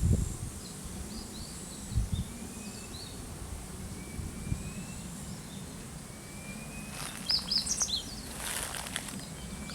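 Small birds chirping in short, high calls over a steady low outdoor rumble, with a low thump about two seconds in. Near the end comes a burst of rapid chirps and a brief rushing noise.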